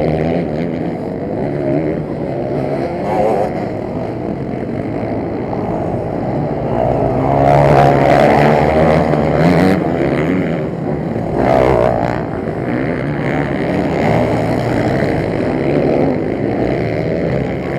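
Motocross bikes' engines racing, pitch rising and falling as riders accelerate and back off, with louder swells about eight and twelve seconds in as bikes pass close.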